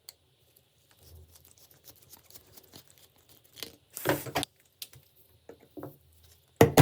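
Small scratching, scraping and clicking of hand work on metal parts, with a louder scraping stroke about four seconds in. A sharp loud thump with a low ringing comes right at the end.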